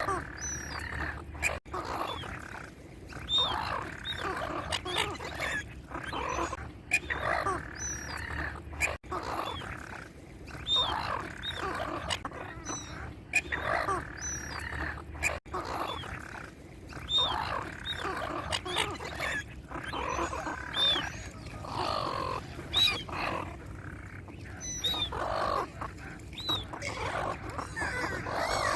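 Animal calls repeating about once a second, with short high chirps above them.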